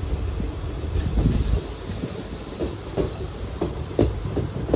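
Passenger train of ICF coaches running on the track, heard from an open coach doorway: a steady low rumble with wheels clacking irregularly over rail joints.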